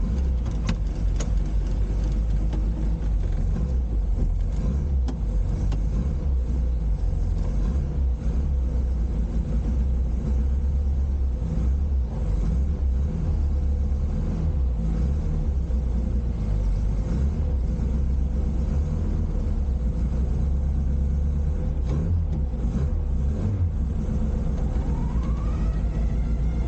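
A classic Mini's engine running as the car is driven, a steady low rumble. A rising note near the end suggests the revs climbing.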